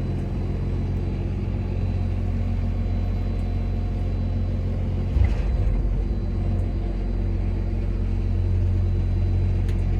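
Grimme Varitron 270 self-propelled potato harvester's diesel engine running steadily while its hopper tank is unfolded hydraulically, with a brief thump about five seconds in.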